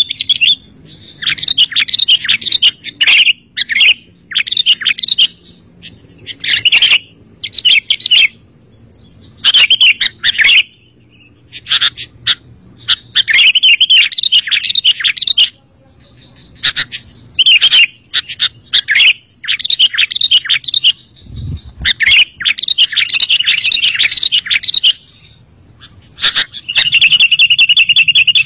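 Sooty-headed bulbul (kutilang) singing: a loud run of short chirping phrases, each a second or two long, separated by brief pauses.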